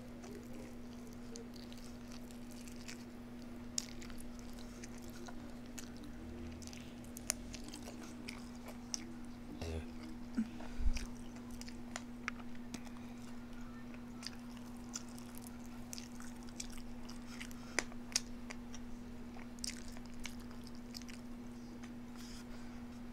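Close-up chewing and biting sounds of a person eating: scattered small crunches and wet mouth clicks over a steady low hum, with one louder knock about eleven seconds in.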